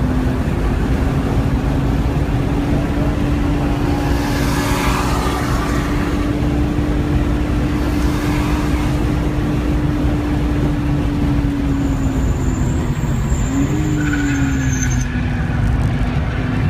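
A 1998 BMW E36 M3's straight-six heard from inside the cabin, pulling steadily at high revs under hard acceleration, with heavy road and wind noise. Its pitch drops under braking about 13 seconds in, rises briefly with a downshift, and settles lower for the corner.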